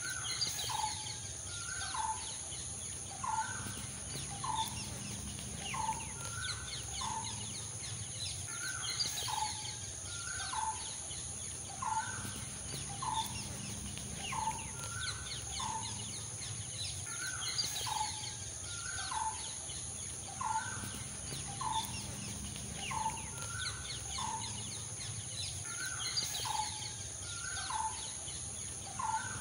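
Short chirping bird calls repeating about once a second in a steady pattern, over a constant high hiss.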